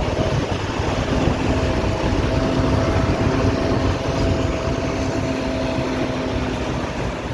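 Steady engine rumble with a faint, even drone held through the middle.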